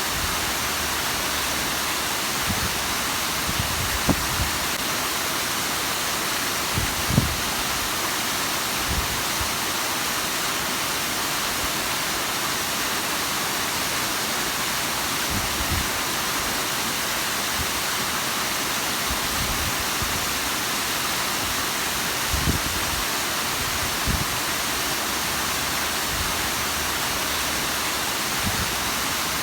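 Bigăr waterfall's steady, even rush of falling water, with a few brief low thumps scattered through it.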